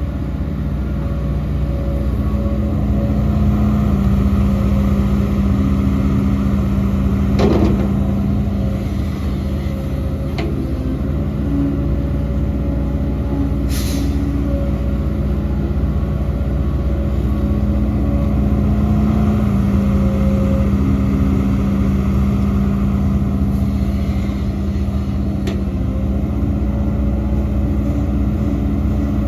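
Heavy diesel earthmoving machinery running steadily, its engine note shifting slightly with load. A falling whine about seven seconds in, and a few short sharp sounds, one a brief hiss about fourteen seconds in.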